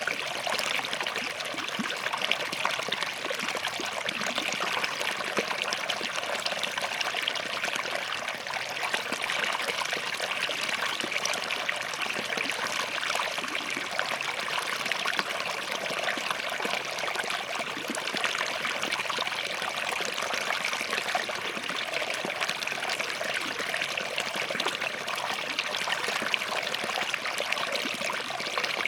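A small forest stream running over and between rocks: a steady rush of water with fine trickling and splashing throughout.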